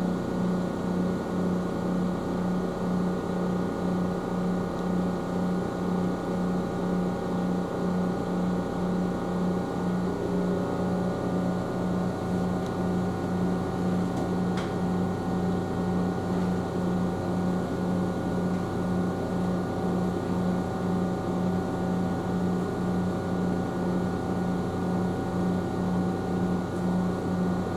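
Steady hum of an Ohmi Railway electric train heard inside the car, a low drone pulsing evenly with several steady tones above it that shift slightly about ten seconds in. A single faint click about halfway through.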